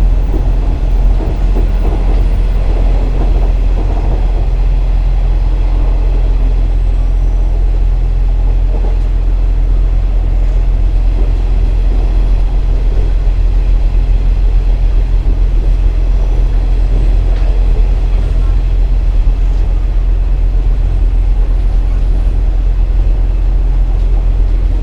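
KiHa 47 diesel railcar running, heard from inside: a steady low engine drone over the rumble of wheels on the rails.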